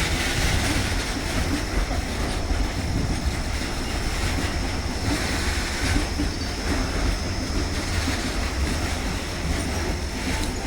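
Loaded coal train of Indian Railways BOBRN bottom-discharge hopper wagons rolling past, its wagon wheels making a steady rumble and clatter on the rails, with a thin high whine held throughout.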